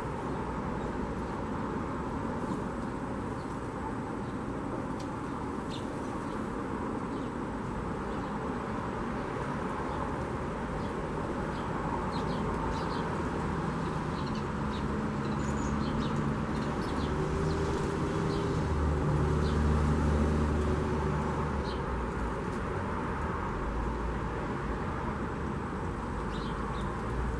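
Short, high bird chirps scattered throughout, over a steady hum of background traffic. A motor vehicle passes partway through, loudest about twenty seconds in.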